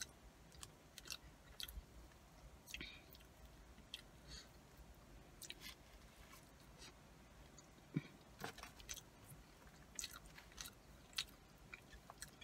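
Faint chewing of cheese-covered curly fries, with scattered soft mouth clicks and smacks and one louder knock about eight seconds in.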